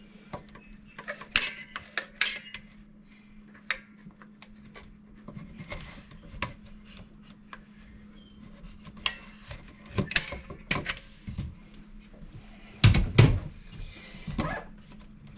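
Tools and parts being handled and set down, a scatter of clicks, taps and knocks, the loudest a pair of knocks near the end, over a faint steady hum.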